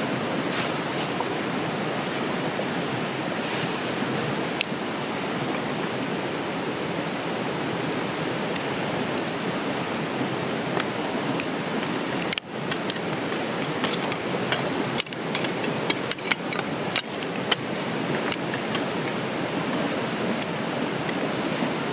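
Steady rushing noise, with a run of sharp clicks and light clinks after about halfway.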